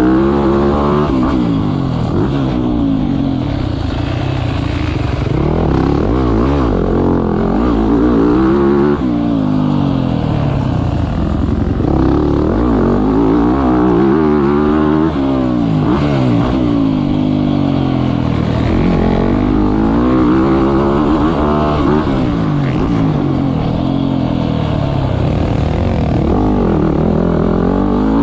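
Motocross bike engine revving hard and easing off again and again, its pitch climbing and then dropping every few seconds as the throttle is opened and closed through the gears.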